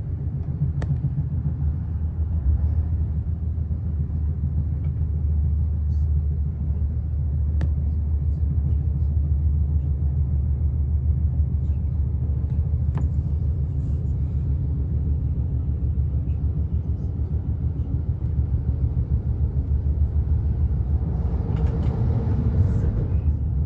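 Steady low rumble of an XPT passenger train running along the line, heard from inside the carriage, with a few faint sharp clicks. Near the end a louder rushing noise swells for about two seconds.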